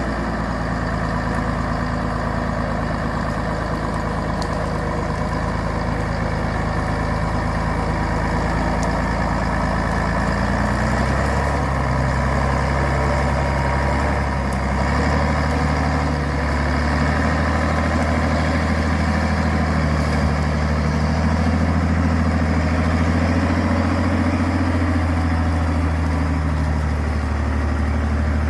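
Truck engine running steadily, its speed stepping up and growing louder about ten seconds in and holding there.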